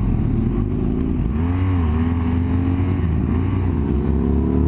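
Motorcycle engine running under way in traffic, its pitch dipping briefly about one and a half seconds in, then rising steadily as it accelerates, over a steady low rumble.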